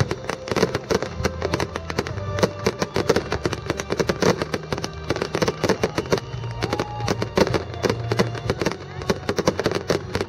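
Fireworks display with a rapid, dense run of pops, bangs and crackles several times a second, over music playing in the background.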